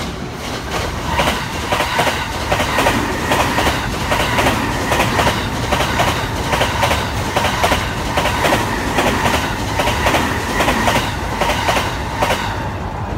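JR 285 series Sunrise Express electric sleeper train passing at close range, its wheels clacking over rail joints in quick pairs, two or three a second, with a steady whine underneath.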